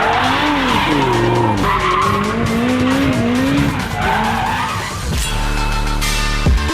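Supercar engine revving up and down over and over, its pitch rising and falling. About five seconds in it gives way to music with a steady beat.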